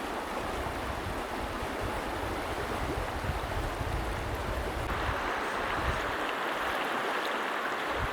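Bow River current rushing steadily, an even hiss of moving water that grows a little brighter about five seconds in.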